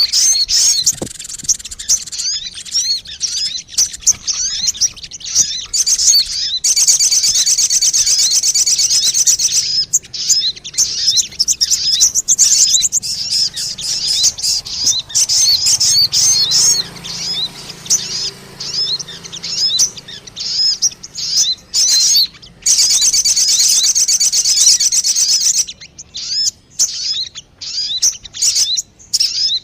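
Sogon bird call used as a lure (pikat): rapid high chirps and twitters throughout, breaking into long, fast buzzing trills about seven seconds in and again about 22 seconds in.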